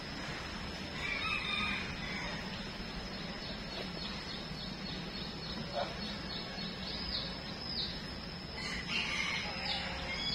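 Two long bird calls, about a second in and again near the end, with short high chirps between them.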